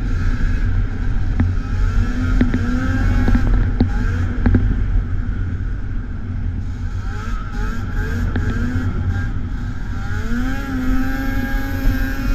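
Vintage two-stroke snowmobile engine running under a heavy rumble, its pitch rising and falling as the throttle is worked, with a few sharp knocks in the first half.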